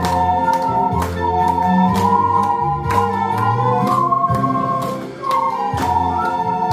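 Ocarinas playing a slow, sustained melody over a backing track with bass notes and a steady drum beat.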